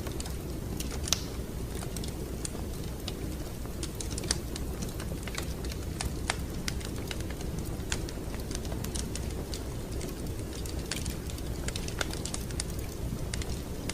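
Wood fire crackling in a fireplace: irregular sharp pops and snaps, a few louder than the rest, over a steady low rumble of the burning fire.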